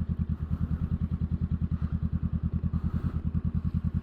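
Honda Rebel 500's parallel-twin engine running steadily with an even low pulse, about eleven beats a second, and no change in pitch.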